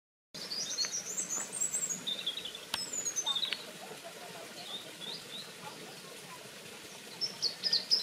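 Wild birds chirping and twittering in short high bursts. The birdsong is busiest in the first few seconds and again near the end, with only a few scattered chirps in between.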